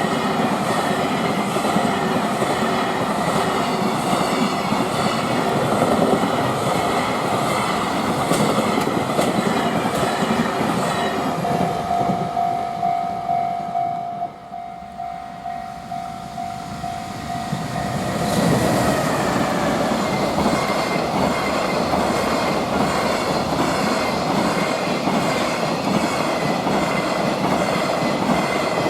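Freight train running past, its wheels clattering over the rail joints. About halfway through, the noise drops for several seconds and a steady tone sounds. Then the train noise comes back at full strength.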